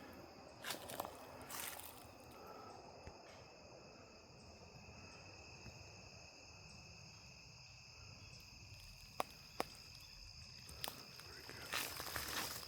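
Steady high insect trilling, two even tones, throughout. Footsteps crunch through dry fallen leaves at the start and again near the end, and two sharp clicks come about nine seconds in.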